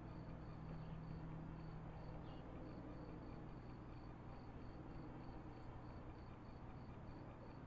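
A cricket chirping steadily, about two short high chirps a second, over a faint steady hiss and low hum.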